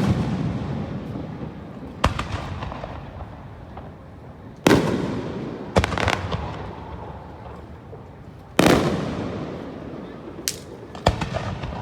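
Aerial fireworks shells bursting in a display: sharp booms with a few quick cracks, each followed by a rolling echo that dies away over a second or two. The loudest bursts come about five and nine seconds in.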